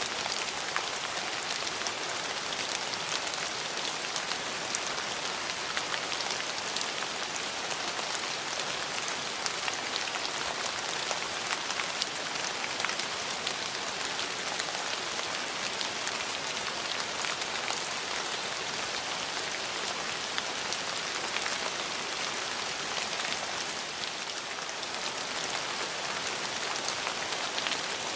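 Steady rain falling on hard surfaces, an even hiss dotted with the fine ticks of individual drops.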